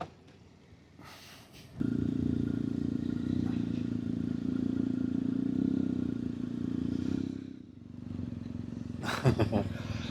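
Motorcycle engine running steadily with a low, even drone that starts abruptly about two seconds in and briefly drops away near the end.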